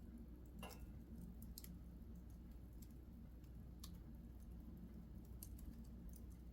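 Fire burning in a fireplace, crackling faintly with a few scattered pops and snaps, over a steady low hum.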